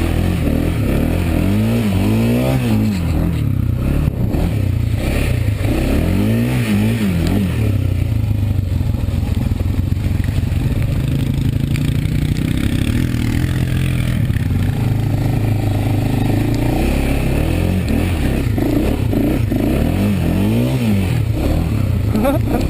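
Single-cylinder Honda ATV engine running under load while riding through mud, revving up and back down about three times as the throttle is worked.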